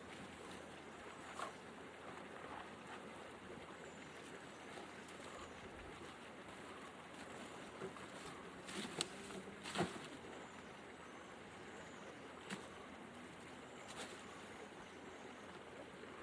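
Steady outdoor background noise broken by a few short knocks and rustles, the two loudest about nine and ten seconds in.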